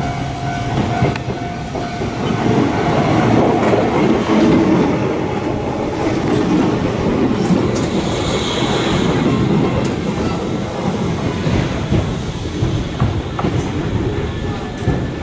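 Shizuoka Railway electric commuter train running past close by, its wheels clicking over the rail joints; loudest about four to five seconds in.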